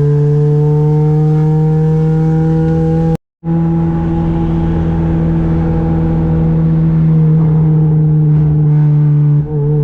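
Toyota 2ZZ-GE four-cylinder engine in a Corolla running under way, its pitch rising slowly over the first few seconds. The sound cuts out completely for a moment about three seconds in, then the engine holds a steady note.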